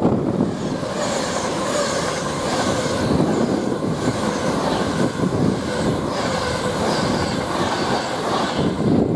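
A train passing at speed: a steady rush of wheels on the rails with a high hiss that comes in at the start and fades near the end.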